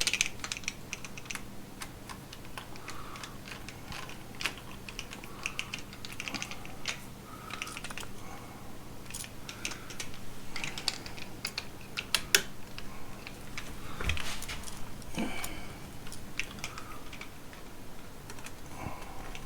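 Irregular small clicks and taps of hand tools and stiff copper wire being worked onto a wall switch's terminal screws, over a faint steady hum.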